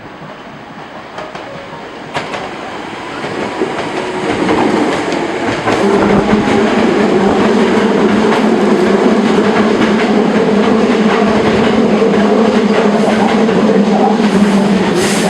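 Hankyu Railway electric train pulling into a station platform, growing louder over the first five or six seconds. After that a steady hum and clatter of wheels over rail joints carries on.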